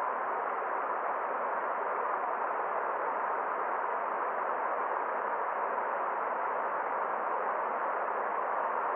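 Steady, even rushing of a forest stream, dull and muffled with no high hiss.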